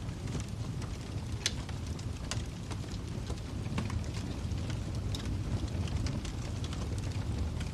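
Wood fire crackling in a fireplace: irregular sharp pops and snaps over a steady low rumble of the flames, with one louder pop about a second and a half in.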